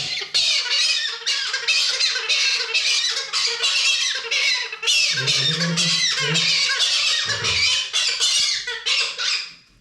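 Parrot screeching in alarm as it is held down for a wing trim: a near-continuous run of harsh, rapidly repeated squawks that stops shortly before the end.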